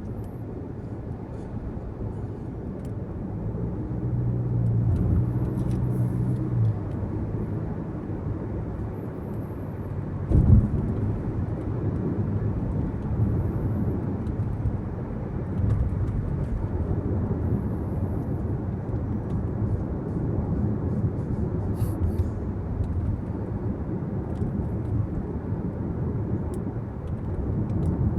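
Steady low rumble of tyres and engine heard inside a moving car's cabin. There is a single short thump about ten seconds in.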